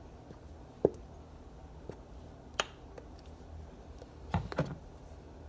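A few sharp clicks and light knocks of kitchen items being handled: one about a second in, another near the middle, and a quick cluster of knocks near the end.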